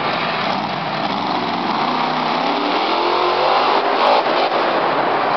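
Monster truck engine revving hard, its pitch swinging up and down, with a sharp click about four seconds in.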